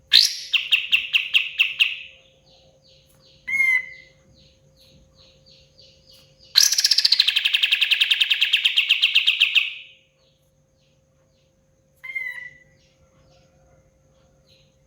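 Kapas tembak songbird singing: a rapid trill of about two seconds at the start, a short slurred call, then a longer rapid trill of about three and a half seconds from halfway, and one more short call near the end.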